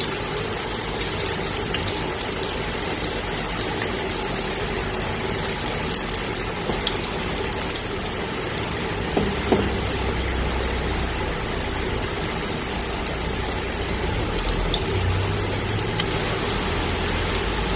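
Julienned ginger sizzling in hot cooking oil in a pot while it is stirred with a silicone spatula: a steady crackling hiss with a few soft knocks of the spatula. The ginger is being sautéed until lightly browned.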